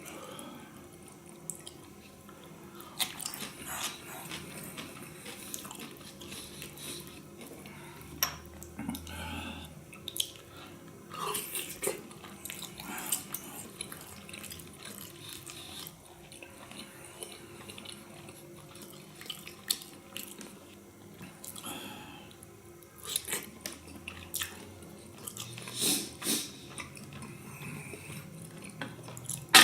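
Close-miked chewing and biting of beef tongue: irregular wet mouth smacks and clicks.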